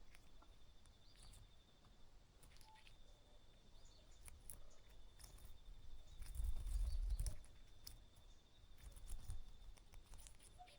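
Faint outdoor ambience: a steady, high, pulsing trill runs throughout, with scattered soft clicks and a few faint short chirps. A brief low rumble comes about six to seven seconds in.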